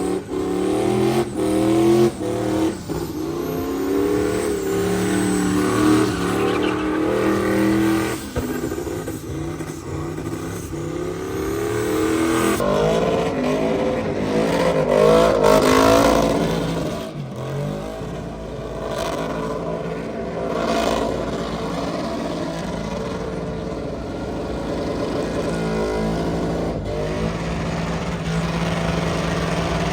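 Truck engines revving hard, the pitch climbing and falling again and again, loudest about halfway through. Near the end it settles into a steadier drone.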